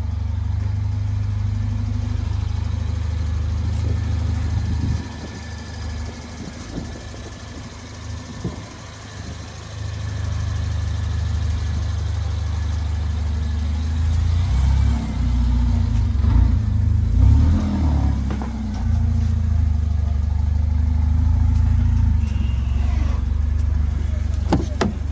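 Mercedes-AMG A45's 2.0-litre turbocharged four-cylinder engine idling with a steady low rumble, dropping lower for a few seconds about a fifth of the way in and then coming back up. A few sharp clicks near the end.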